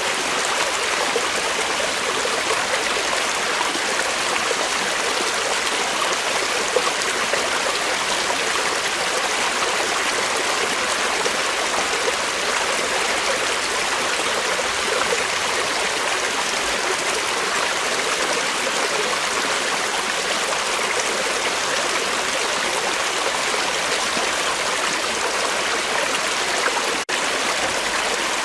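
Creek water flowing over rocks: a steady, even rushing with a momentary break near the end.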